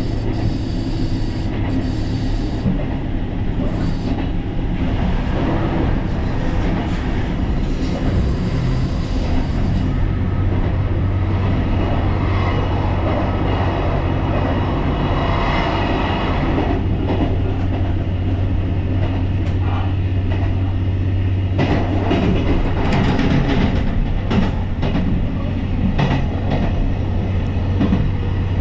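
JR Shikoku 2700-series diesel railcar running along the line, with a steady low engine drone from about a third of the way in over continuous rolling noise and scattered clicks from the track.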